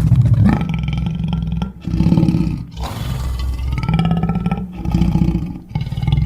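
Made-up creature voice for King Shark: a run of about five low, rough growling roars, each around a second long, with short breaks between them.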